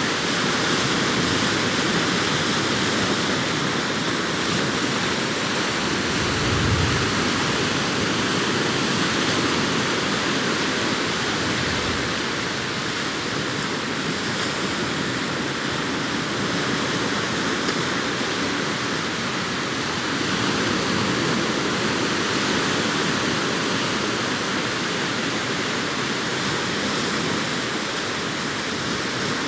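Sea waves breaking and washing up a beach, a continuous rushing surf with gentle rises and falls in level. A brief low thump about seven seconds in.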